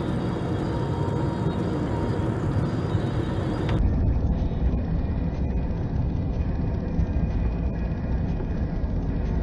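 Steady low rumble of a car driving: road and engine noise heard from inside the vehicle. About four seconds in it changes abruptly to a heavier, deeper rumble as a different dashcam recording begins.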